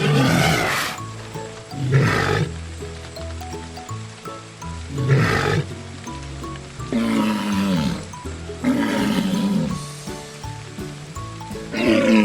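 Walrus calls over background music: three short noisy calls in the first half, then two longer, lower calls that fall in pitch.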